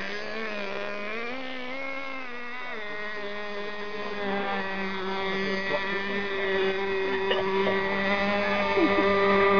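Nitro glow engine of an RC speedboat (Dynamite .32 Marine) running at high revs, a steady high-pitched buzz. Its pitch wavers briefly in the first few seconds, then holds steady as the sound grows louder.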